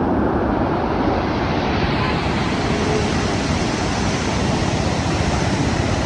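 Steady rushing of the Bagmati River in flood, heavy floodwater pouring through the gorge. The hiss grows brighter about two seconds in.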